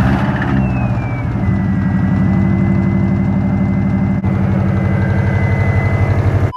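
Camaro's engine idling just after start-up, loud with a pulsing, lumpy beat. A high whine runs over it, dropping in pitch during the first second or so and then holding steady.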